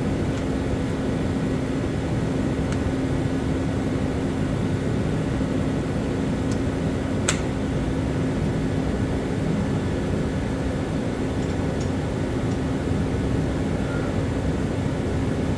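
A steady mechanical hum with a constant low tone, and a single sharp click about seven seconds in.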